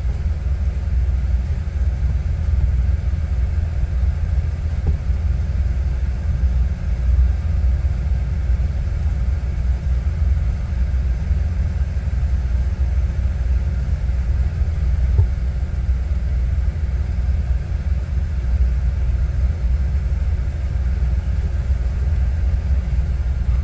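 A vehicle's engine idling, a steady low rumble heard from inside the cabin.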